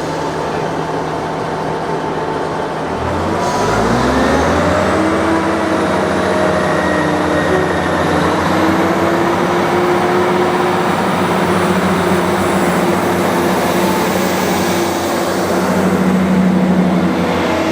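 Diesel train engine revving up sharply about three seconds in, then running steadily under higher power.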